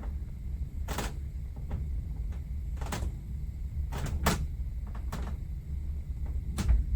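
Cruise-ship cabin creaking: sharp, irregular creaks and knocks, about six of them, over a steady low rumble. This is the persistent creaking heard in the cabin through the night.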